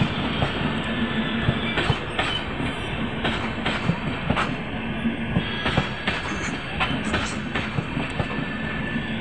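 Sleeper and AC coaches of an Indian Railways express train rolling past at close range: a steady rolling rumble, with sharp clacks as the wheels cross the rail joints.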